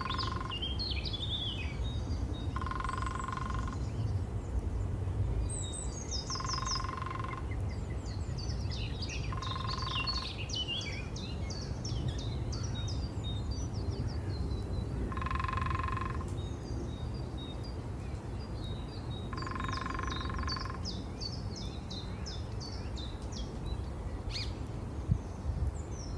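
Lesser spotted woodpecker drumming: six drum rolls of about a second each, a few seconds apart. Other songbirds chirp and sing throughout, over a steady low background rumble.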